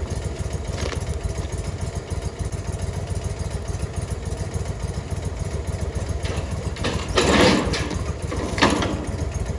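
Scag mower's engine running steadily with a fast low pulsing, and two louder bursts of noise about seven and eight and a half seconds in.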